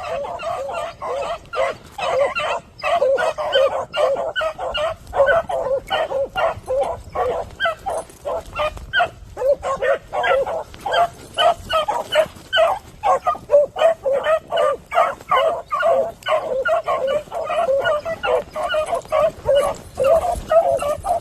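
A pack of beagles baying while running a rabbit's scent, many dogs barking in rapid, overlapping succession without a break.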